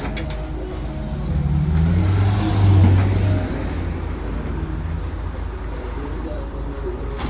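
A motor vehicle engine running, swelling louder and rising in pitch for about two seconds, then settling back to a steady low rumble.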